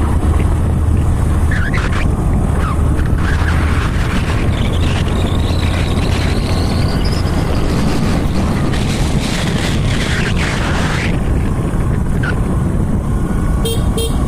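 Motorcycle engine running steadily while riding on a rough road, with wind buffeting the microphone.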